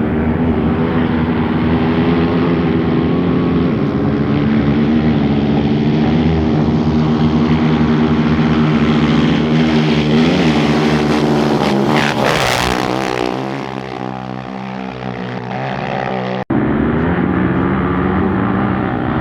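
Off-road race motorcycle engine running at high revs as the bike approaches and passes close by, with a rush of noise and a dropping pitch about twelve seconds in. The sound cuts off abruptly near the end, then engine noise resumes.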